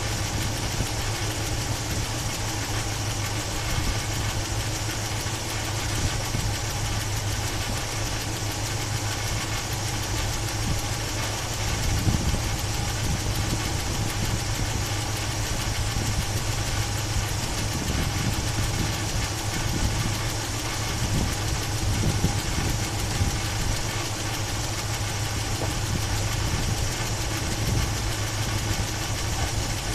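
Chevy 350 small-block V8 idling, mostly steady, with a few uneven low surges about twelve seconds in and again around twenty seconds in. The engine is running badly with a noise from the top end, which the owner suspects is a bad valve or old gas.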